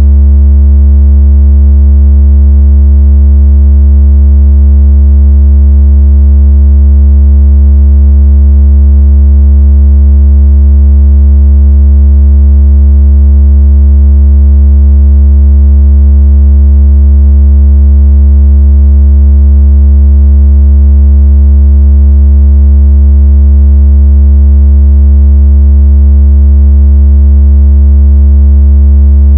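A continuous, very loud synthesized low bass tone with faint overtones, held perfectly steady. It is the kind of deep tone played to shake water out of a phone speaker or to imitate strong phone vibration.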